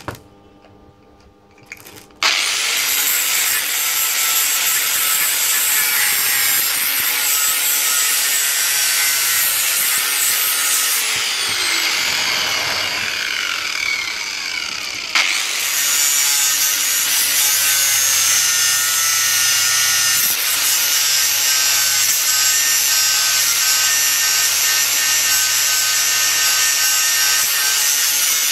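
Angle grinder grinding down a freshly welded steel exhaust pipe. It starts about two seconds in and runs loud. About halfway through it winds down with a falling whine, then cuts back in sharply and keeps grinding.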